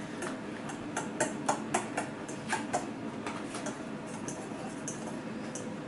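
Fork clinking against a mixing bowl while cake batter ingredients are stirred: a string of short, irregular clicks, thinning out toward the end.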